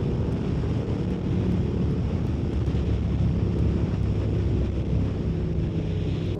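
Yamaha MT-07's parallel-twin engine running steadily at road speed, under heavy wind buffeting on the microphone.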